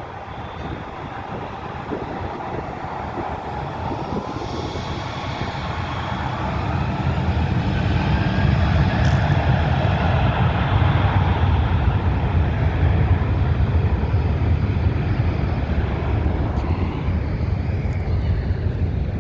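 Jet airliner's engines flying past on approach to land: a low rumble with a gliding whine that swells to its loudest about ten seconds in, then eases slightly.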